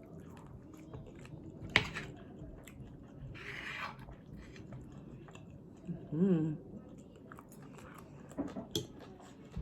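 Close-miked chewing of crispy fried potatoes and egg soaked in runny yolk, with a sharp click a little under two seconds in. A short hummed "mm" comes about six seconds in.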